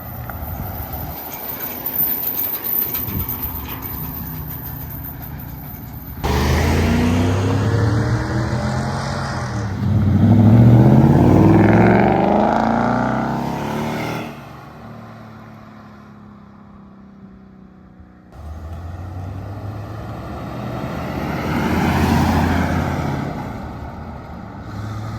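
Car engines at a drag strip revving and accelerating, pitch climbing as they pull away. The sound changes abruptly about six and eighteen seconds in, with the loudest, rising run in between.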